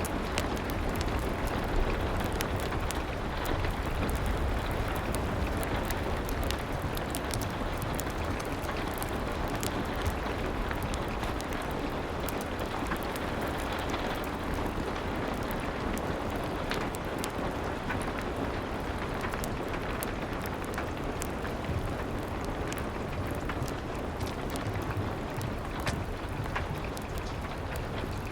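Steady rain against a window mixed with a crackling fireplace: a dense, even hiss over a low rumble, with many small sharp pops scattered throughout.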